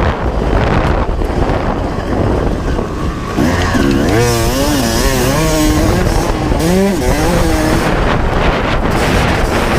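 1995 Honda CR250's two-stroke single-cylinder engine under way, revved hard. From about three and a half seconds in, its pitch swings quickly up and down several times as the throttle is worked, over a constant rush of wind noise on the microphone.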